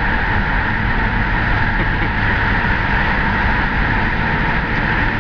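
1970 Chevelle SS big-block V8 running under way, heard from inside the cabin together with road noise as a steady, dense drone.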